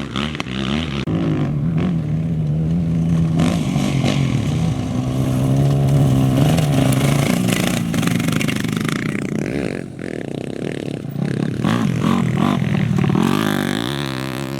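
Off-road race vehicle engine revving up and down, its pitch rising and falling repeatedly, with a brief drop in loudness about ten seconds in.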